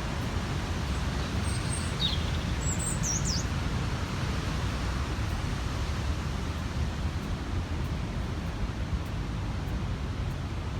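Steady outdoor rushing noise, heaviest in the low end, with a few short high bird chirps about two to three and a half seconds in.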